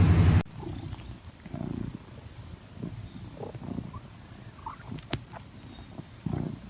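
A cat purring, heard as soft low pulses about once a second, with a single sharp click about five seconds in. It follows a loud, steady, low drone that cuts off abruptly about half a second in.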